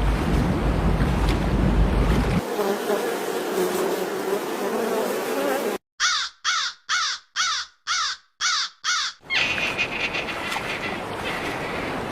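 A harsh animal call repeated seven times in quick succession, about two a second, between stretches of steady background noise, with a heavy low rumble in the first couple of seconds.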